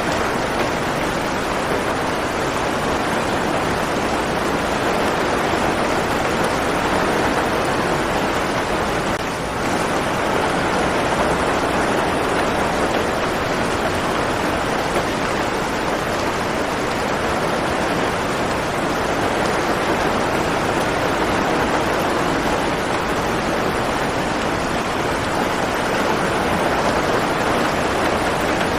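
Steady rainfall, an even hiss of drops with no thunder, dipping slightly for a moment about a third of the way in.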